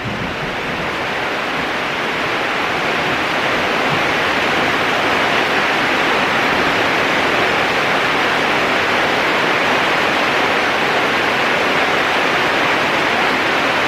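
Heavy rain falling steadily, a dense even hiss that grows a little louder over the first few seconds.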